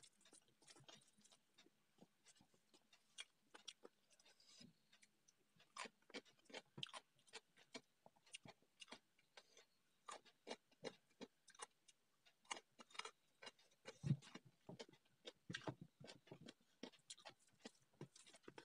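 Close-up eating sounds: chewing and lip smacks as many irregular short wet clicks, with fingers mixing rice and curry on a steel plate. One louder, deeper thud comes about 14 seconds in.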